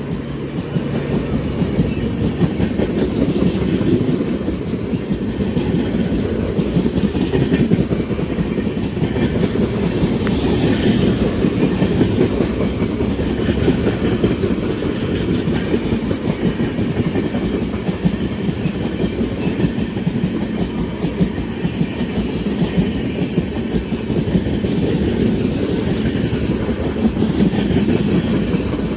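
Passenger train hauled by an Indian Railways WAP7 electric locomotive passing at speed: a continuous clatter of coach wheels over the rail joints.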